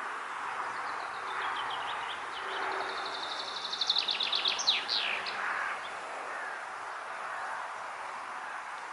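A songbird sings one song: high, quick notes that speed up into a trill and end in a few downward-sweeping notes. Under it runs a steady rush of wind.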